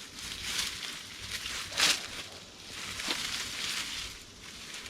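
Rustling and crunching in dry leaves and brush on a wooded hillside, with a sharp snap, likely a twig, about two seconds in and a softer one about a second later.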